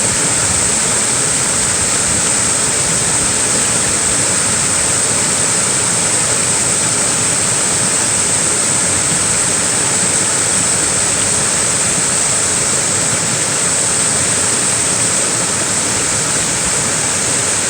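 Small waterfall splashing: a loud, steady rush of falling water with a bright hiss and no breaks.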